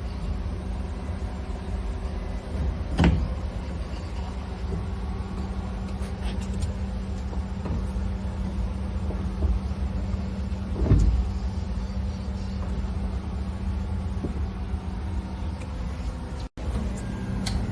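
Inboard engine of a Yamaha UF25 boat running steadily at idle. Two short knocks come about three seconds in and again around eleven seconds, and the sound drops out for an instant near the end.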